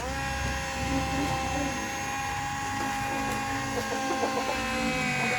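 Small electric motor of a toy construction vehicle whining steadily. It starts abruptly and its pitch sags slightly toward the end, as if under load.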